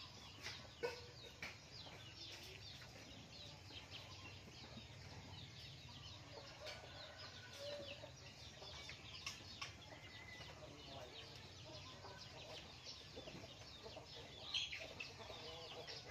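Faint background birds: many quick, high chirps, with a few lower clucking calls and soft clicks.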